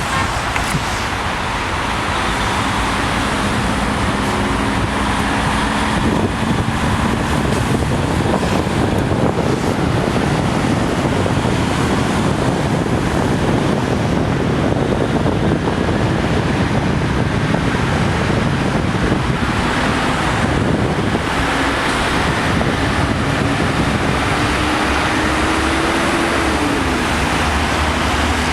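Steady freeway traffic noise: the tyres and engines of passing vehicles, with a rushing hiss. An engine tone rises and then drops near the end.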